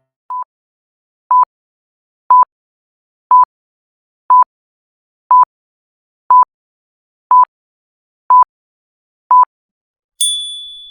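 Quiz countdown timer: ten short beeps of the same pitch, one each second, the first one fainter. Near the end a high bell-like ding rings out, marking that time is up.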